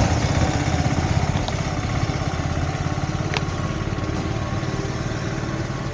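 Suzuki GSX650F's inline-four engine running steadily at idle, with one brief high chirp about three seconds in.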